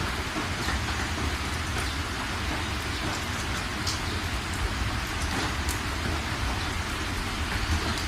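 Steady rain falling, an even hiss with scattered drops ticking on a surface and a low rumble underneath.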